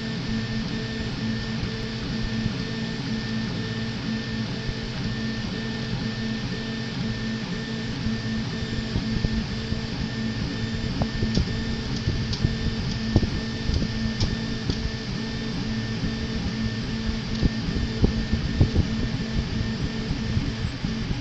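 RepRap Prusa Mendel 3D printer running a print, its stepper motors humming and whining in steady tones. Scattered small clicks and ticks come in from about halfway.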